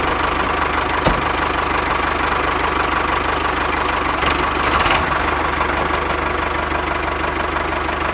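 A small motor running steadily with a fast, even rattle, and a single click about a second in.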